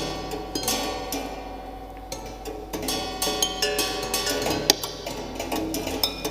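Solenoids and small motors fitted to a stripped-down piano, tapping and striking its strings and wooden frame. Irregular clicks and taps sound over ringing string notes.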